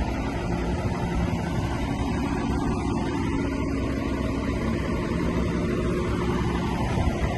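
Diesel engine of heavy earthmoving machinery running steadily under load, a low rumble with a few held engine tones.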